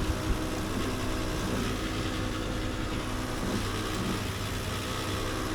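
A steady mechanical hum with a low, even drone, and a few sharp clicks right at the start.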